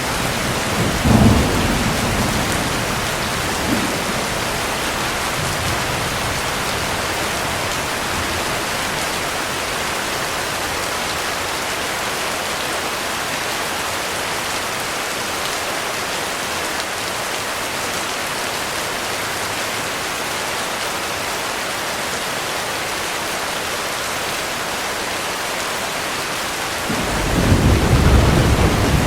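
Heavy rain falling steadily, with a short clap of thunder about a second in and rumbling thunder building near the end.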